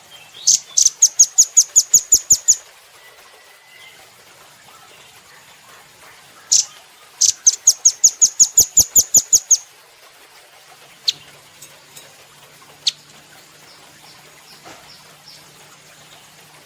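Velvet-fronted nuthatch (rambatan) singing: two loud, rapid trills of sharp, high repeated notes, about six a second and each lasting two to three seconds, followed by a few single chips.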